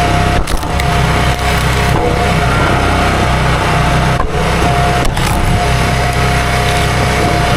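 Chainsaw engine running steadily, cutting wood, with a few brief dips.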